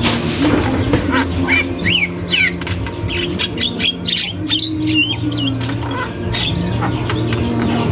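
Javan myna (jalak kebo) calling nonstop: a rapid run of harsh squawks, clicks and chattering notes, with short whistled notes sliding up and down, over a steady low hum.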